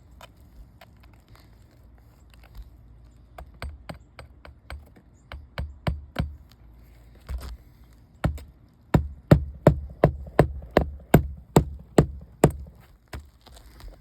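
Hammer driving roofing nails through asphalt architectural shingles: a few light setting taps, then a quick run of about a dozen hard blows, roughly three a second, fastening a replacement shingle along its nail strip.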